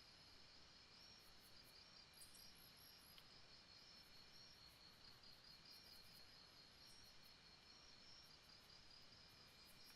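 Faint jungle night chorus of insects chirping steadily in rapid pulses, with sparse high ticks over a soft hiss.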